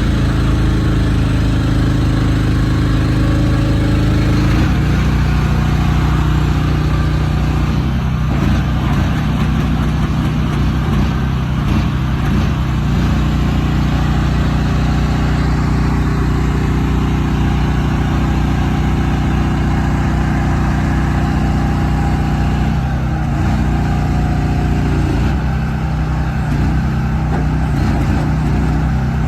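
Large truck engine running at low speed throughout, its pitch shifting up and down near the start and again near the end.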